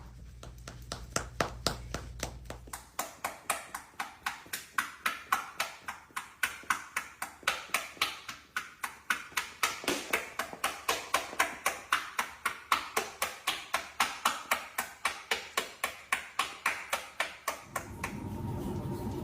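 Buttocks clapping together in a fast, even rhythm, about three to four sharp slaps a second, stopping near the end.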